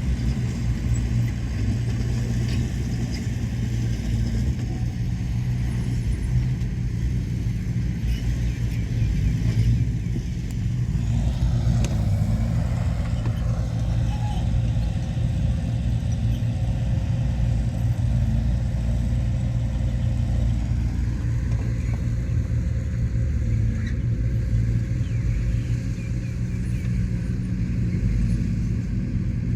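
Heavy diesel earthmoving machinery running steadily with a low rumble; a higher steady note joins from about a third of the way in and drops away about two thirds through.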